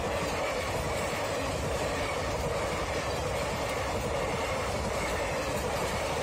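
Train running on rails: a steady, even rolling noise from its wheels.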